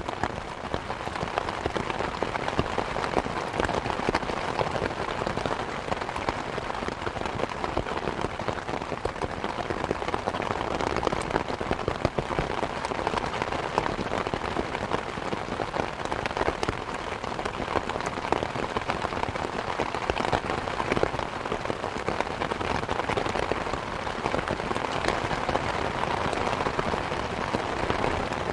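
Steady rain falling, mixed with a crackling wood fire: a dense hiss of rain peppered with many small pops and snaps, one sharper pop about twelve seconds in.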